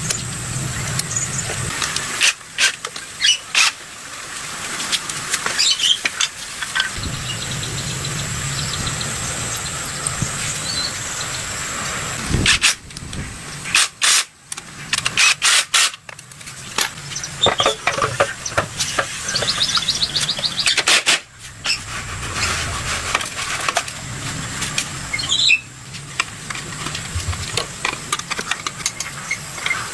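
Hand work on a small motorcycle engine in short cut-together clips: sharp clicks and knocks, scraping, and a brief squeak, with a quick run of ticks a little past the middle.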